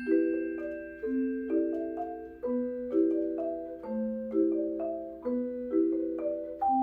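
Mallet percussion ensemble playing a waltz: a low note and two ringing chord strikes repeat in a steady three-beat pattern, about one bar every second and a half, under higher bell-like melody notes.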